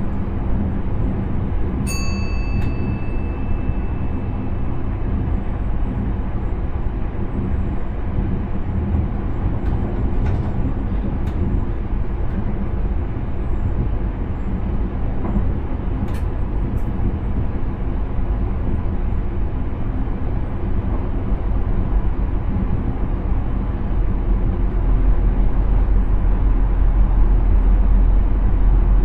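Intercity train running along the line, heard from inside the driver's cab: a steady low rumble of wheels and running gear with a continuous hum. A short pitched tone sounds about two seconds in, a few light clicks follow, and the low rumble grows louder near the end.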